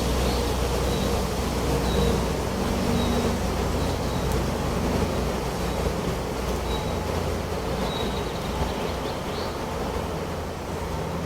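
Wind blowing steadily with a deep low rumble, and a bird giving short high chirps, roughly one a second in places, over it.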